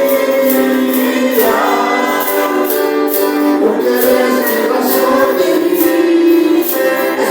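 Congregational worship music: voices singing a praise song over a steady tambourine beat, about two shakes a second.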